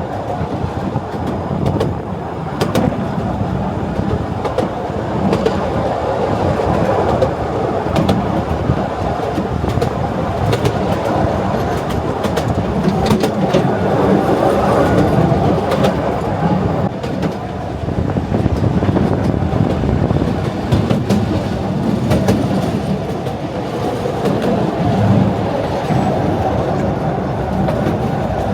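The Artouste narrow-gauge railway train running along its track: a steady rumble of wheels on rails with scattered clicks and rattles from the carriages.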